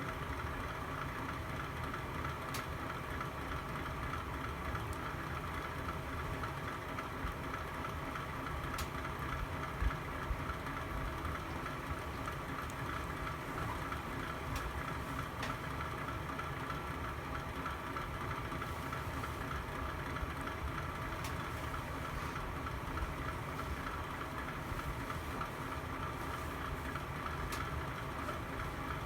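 Fire burning in a fireplace: a steady low rushing hum with a few sharp crackles scattered through, and a dull thump about ten seconds in.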